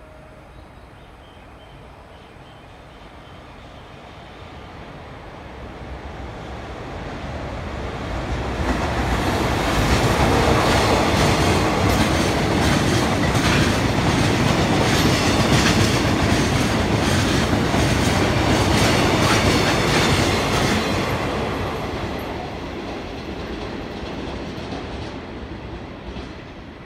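A freight train of Taki tank wagons passes at fairly high speed, its wheels clattering hard over the rail joints in a quick, repeating rhythm. The sound builds from about four seconds in, is loud for roughly twelve seconds, then fades away.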